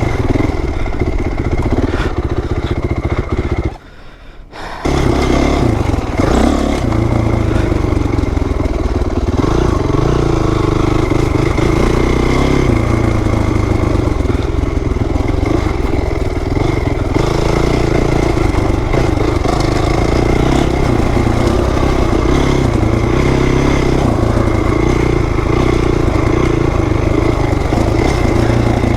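2008 Honda CRF450R dirt bike's single-cylinder four-stroke engine running under load on a dirt track, its note rising and falling with the throttle. It breaks off abruptly for about a second, about four seconds in.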